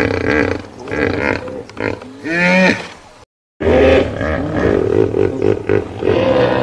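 Hippopotamus calling: a series of loud pitched calls, broken by a moment of silence about three seconds in.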